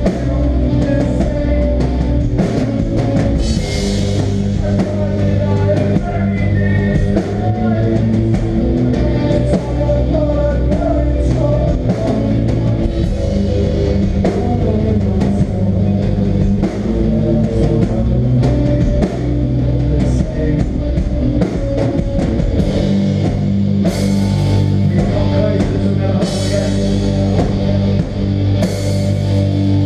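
Live melodic hardcore band playing: distorted guitars, bass and drum kit, with cymbal crashes about four seconds in and again near the end.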